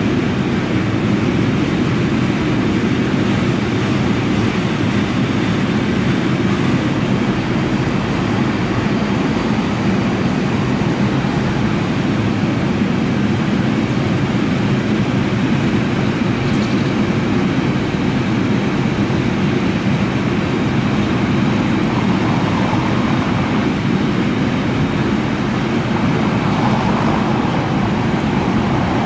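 Container freight train rolling past, the wheels of the loaded flat wagons giving a steady, unbroken run of rail noise.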